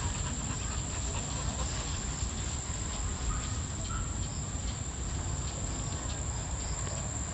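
Rural outdoor ambience: a steady low rumble, with a few faint, scattered bird chirps and a continuous high insect buzz.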